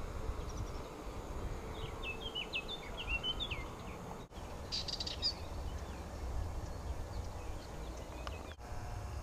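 Wild birds singing outdoors: a quick phrase of chirping notes in the first few seconds, then a short, higher call about five seconds in, over a steady low background rumble.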